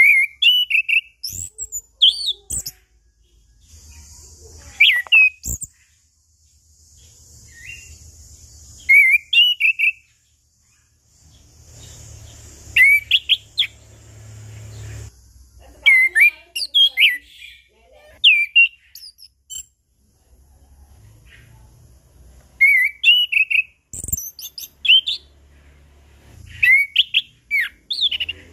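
Chestnut-capped thrush (anis kembang) singing in loud, clear, open song: short phrases of whistled notes sweeping up and down, broken by pauses of a second or two.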